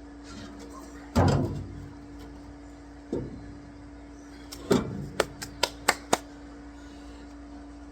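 Steel lid of an International 1150 grinder mixer's hammer-mill housing being pried off and handled: a loud metal clank about a second in, a lighter knock a couple of seconds later, then another clank followed by a quick run of four sharp metallic clicks. A steady hum runs underneath.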